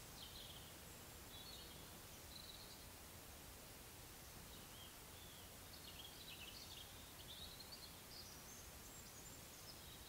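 Faint, high, thin bird song: short chirping phrases come and go, and grow busier in the second half.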